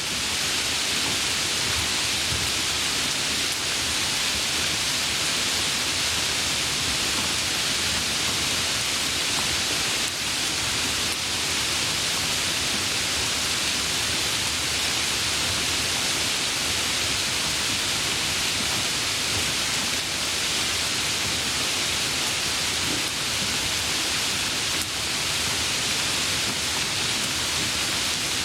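Steady rainfall: a constant even hiss with no thunder or distinct drops standing out.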